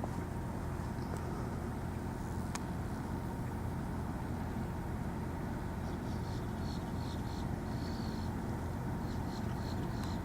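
Steady low rumble of an idling engine. Short high chirps come in clusters from about six seconds in.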